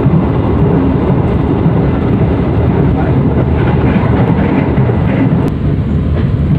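Running noise of a passenger train heard from inside an economy coach: a steady, dense low rumble of the coach in motion on the rails. A single click comes about five and a half seconds in.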